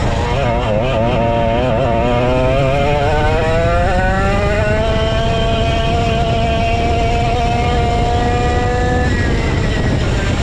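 Vintage go-kart's 135cc Sudam engine running hard at racing speed. The pitch wavers, then climbs steadily for a few seconds as it accelerates, holds high, and drops off about a second before the end.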